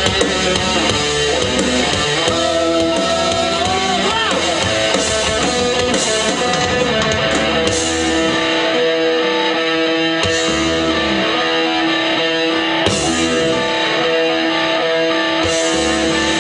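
Live heavy metal band playing, led by an electric guitar that bends notes in the first few seconds and then holds long sustained notes, with several crashes in the high end.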